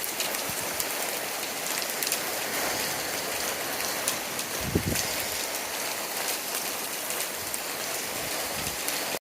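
Heavy rain pelting down: a steady hiss with many sharp drop ticks. A short low thump comes about halfway through.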